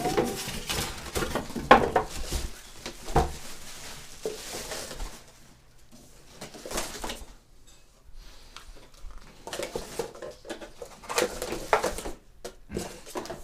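Scattered clinks and knocks of hard objects being handled, busiest in the first few seconds and again near the end, with a quieter stretch in between.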